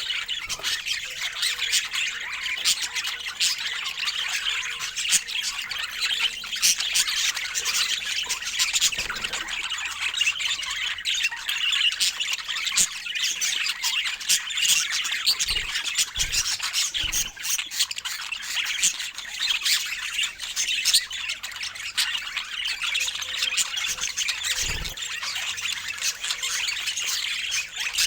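Budgerigars chattering continuously, a steady stream of high squawks, chirps and warbles.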